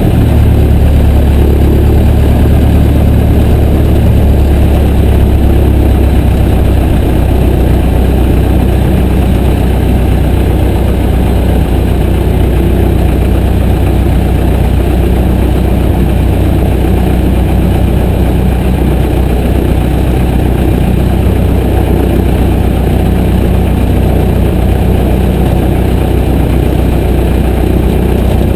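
Piper J3 Cub's air-cooled flat-four engine and propeller running steadily at constant power: a loud, even, low drone with a rushing noise over it.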